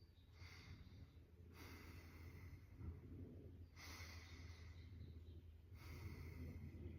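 Faint, slow breaths in and out during a qigong lung breathing exercise, each breath a soft hiss lasting a second or two, about four of them.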